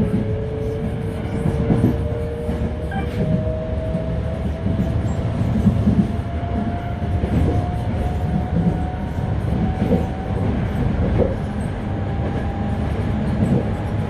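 Toei 5300 series electric train running, heard from inside the car: a motor whine of two tones rising slowly and steadily in pitch as the train gathers speed, over a continuous low rumble with light wheel knocks on rail joints. The car is known for an unusual running noise.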